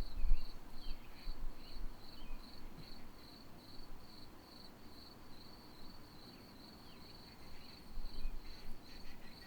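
Cricket chirping steadily in the background, a high, evenly repeated pulse of about two to three chirps a second. A few soft low thuds near the start and again about eight seconds in.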